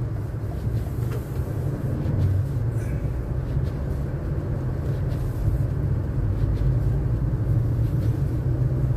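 Car's engine and road noise heard from inside the cabin: a steady low rumble.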